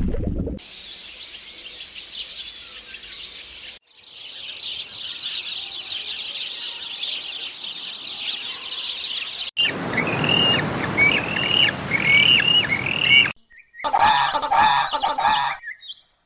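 A sequence of bird recordings separated by sudden cuts: first dense chattering of many birds, then a string of repeated short hooked calls, then a few lower, harsher squawking calls near the end.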